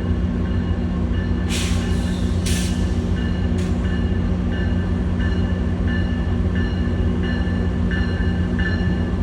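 Metrolink diesel locomotive running with a steady low drone. Three short bursts of air hissing come about one and a half, two and a half and three and a half seconds in, then a bell rings at an even pace, about three strokes every two seconds, as the train arrives at the platform.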